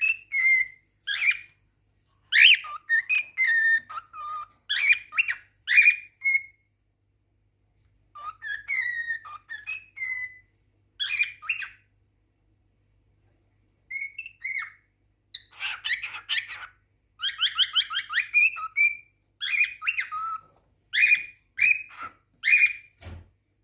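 Cockatiel whistling and singing in short, repeated phrases of warbling notes with chirps, the courtship song of a male calling to his mate, with pauses of a second or two between bursts. A single knock sounds near the end.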